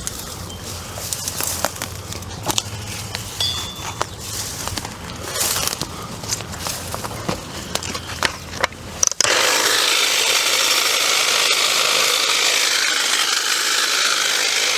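Power brush cutter working through bushes: branches crackling and snapping over a low hum, then about nine seconds in a loud steady whirring noise starts suddenly and runs on.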